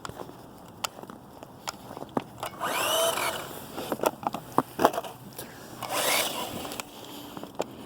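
Hosim S911 RC truck's electric motor revving in two short bursts, each whining up and falling away, with its tyres spinning in wet snow; light clicks in between.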